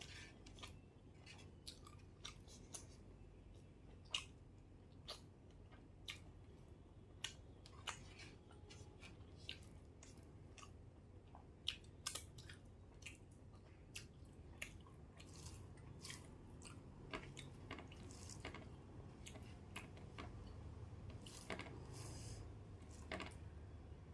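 Close-up chewing of rice and curry, with soft, wet mouth clicks and smacks about once or twice a second.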